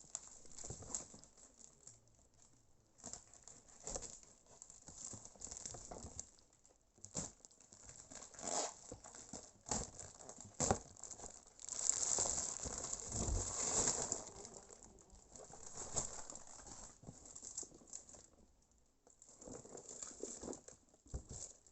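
Packaging being handled and unwrapped by hand: irregular crinkling and rustling with scattered clicks and knocks, busiest about twelve to fourteen seconds in.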